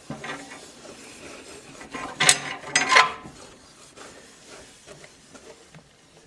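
A wet wipe rubbing over the glass of a fireplace door, with two louder short rustles about two and three seconds in.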